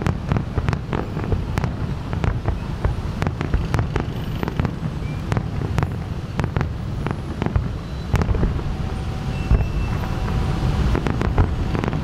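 Fireworks show: aerial shells bursting in quick, irregular succession, several sharp bangs a second, over a steady low rumble.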